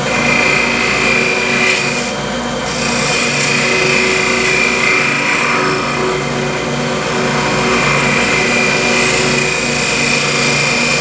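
Wood lathe running while a turning tool cuts a concave into the face of a small spinning wood blank, a steady sound with a continuous high whine that eases briefly about two seconds in.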